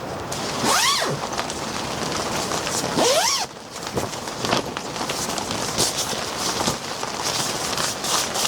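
A zipper pulled twice, each pull a short rasp that rises and falls in pitch, over a steady hiss, followed by a run of small clicks and crackles.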